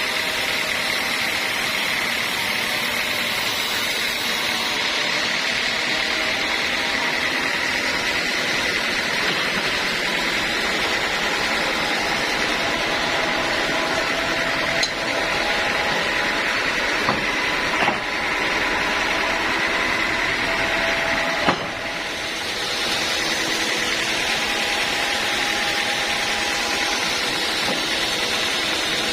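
Band sawmill running steadily, with a few short sharp knocks about halfway through.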